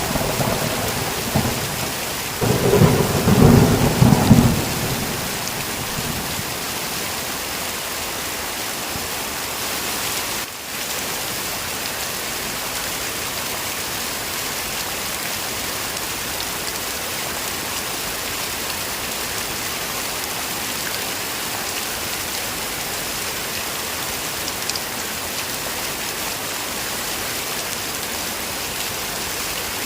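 Heavy rain falling steadily, with a low rumble of thunder about three seconds in and the tail of an earlier thunderclap dying away at the start.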